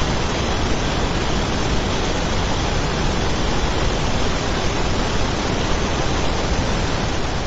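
Fire extinguisher spraying: a loud, steady hiss.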